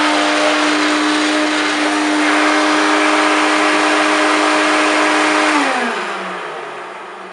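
Hoover Turbopower 1 U2806 upright vacuum cleaner running loud with a steady motor whine, then switched off about three quarters of the way through, its motor winding down with a falling pitch.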